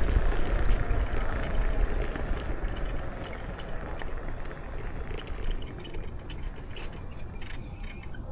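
Wind rumbling on the microphone with tyre and road noise from a Kukirin G2 electric scooter being ridden, growing steadily quieter, with light rattling clicks in the second half.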